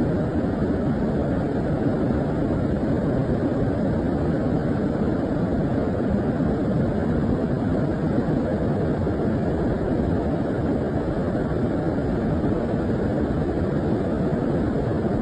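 Rain-swollen stream in flood, its water rushing steadily as an even, unbroken noise that stays low in pitch.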